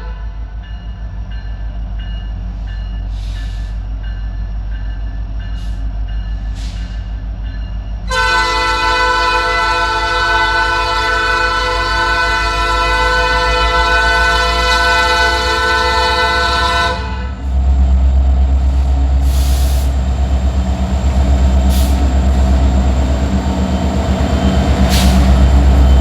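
Diesel freight locomotives rumbling as they approach, then an air horn sounds one long chord blast of about nine seconds that cuts off sharply. After it the engine rumble grows much louder as the locomotives pass close.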